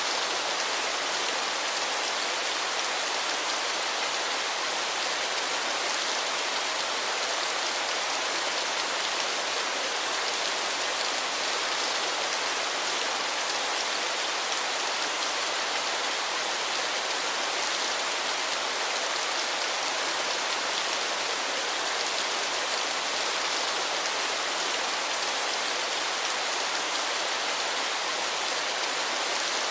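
Waterfall: a steady, unchanging rush of falling, splashing water, mostly hiss with little deep rumble.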